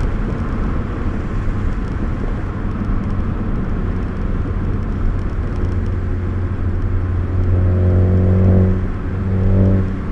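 Car engine droning steadily, heard from inside the cabin; it grows louder for a couple of seconds about eight seconds in.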